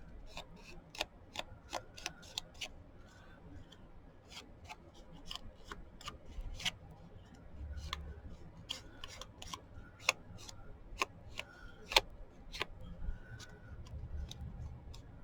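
Paper and crafting tools being handled on a desk: irregular sharp clicks and taps, with some light rubbing, scattered throughout.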